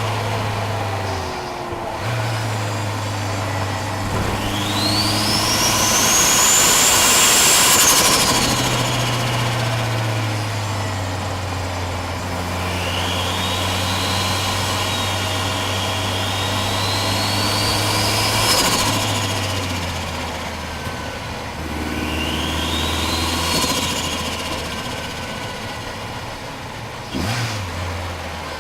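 Subaru Impreza GC8 engine revving hard under load, picked up close in the engine bay. Its pitch climbs over several seconds and drops sharply at each gear change, three times.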